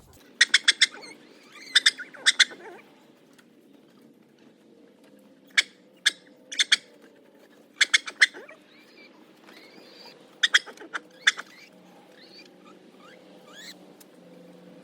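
Chickens calling: several clusters of two to four quick, sharp, high calls, with fainter chirps in between.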